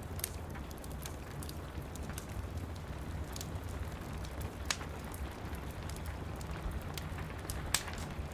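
Wood fire in a fireplace crackling, with scattered sharp pops every second or two, over the steady hiss and low rumble of falling rain.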